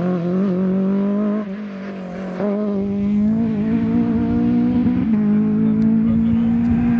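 Rally car's engine pulling hard under acceleration. Its note climbs in steps, with a short drop about a second and a half in as it changes gear, then holds high and steady.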